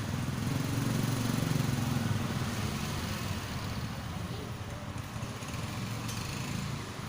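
Low rumble of a motor vehicle's engine, growing louder over the first couple of seconds and then easing off, with a steady hiss above it.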